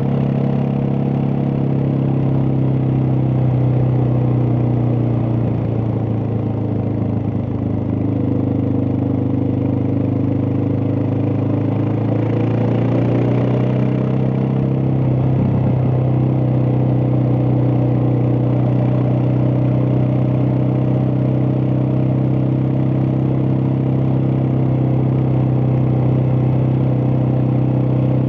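Suzuki DR650's single-cylinder four-stroke engine running steadily. Its note drops around the middle and then rises back to its earlier pitch.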